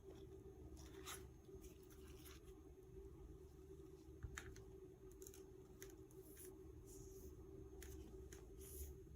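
Near silence: room tone with a steady low hum and a few faint, scattered scratches and ticks.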